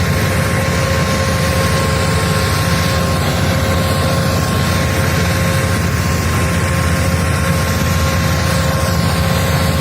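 Preet 6049 tractor's diesel engine running steadily, with a thin steady whine above the engine note.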